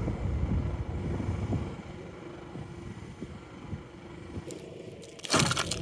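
A low rumble, then about five seconds in a loud crunching, scraping sound of packed snow.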